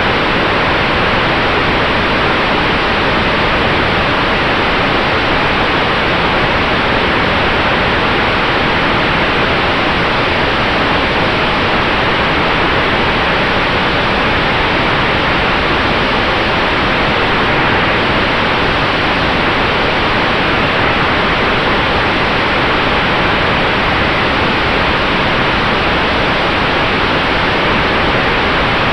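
Steady rushing noise of airflow and propeller in an electric Sonex Xenos airplane in flight, with a faint steady tone in it.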